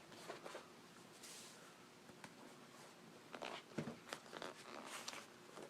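Faint rustling and scraping with a few light clicks, from hands and tools working a vinyl seat cover over a motorcycle seat's foam and pan.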